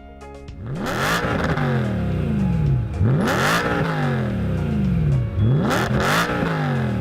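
Nissan 370Z's VQ37VHR V6 free-revving, blipped three times: each rev climbs quickly to a high peak and then falls slowly back toward idle.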